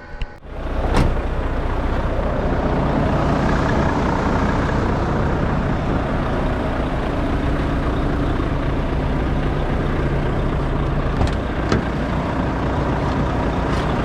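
Lorry's diesel engine running steadily, coming in sharply about half a second in, with a few light clicks near the end.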